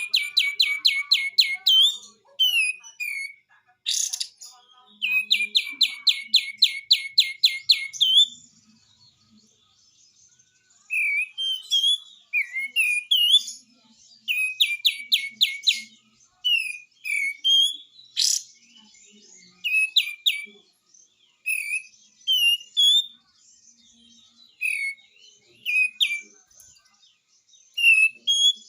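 Kapas tembak (a bulbul) singing its 'besetan' song: fast runs of sharp repeated notes at about eight a second, broken by short rising chirps and a couple of sharp sweeping calls.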